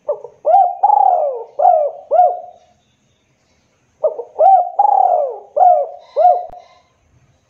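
Spotted dove (tekukur) cooing: two rhythmic phrases of about five notes each, the first at the start and the second about four seconds in, each lasting about two and a half seconds.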